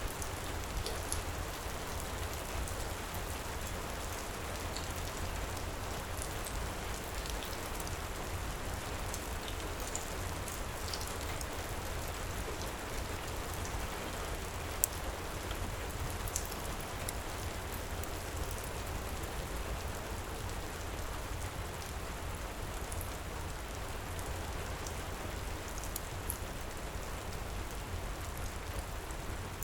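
Steady heavy rain, with scattered small sharp ticks and one louder snap about halfway through.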